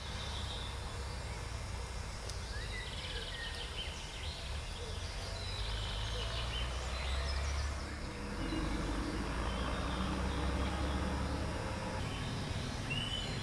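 Outdoor ambience: birds chirping and calling in scattered short notes over a steady low rumble.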